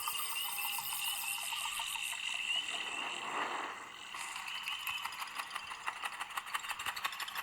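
Dolby Atmos demo audio played at full volume through a Lenovo Tab 2 A8 tablet's small speakers, thin with almost no bass: a dense mix of rapid chirps, trills and rattling clicks, dipping briefly about four seconds in.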